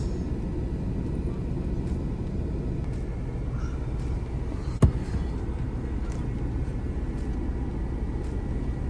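Car engine running with a steady low rumble, heard from inside the cabin, with a single sharp click a little under five seconds in.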